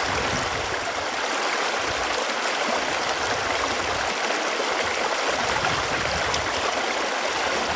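Running water making a steady, even rush.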